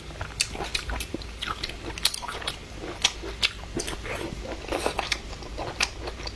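Close-miked chewing and biting of food, with irregular sharp wet mouth clicks several times a second.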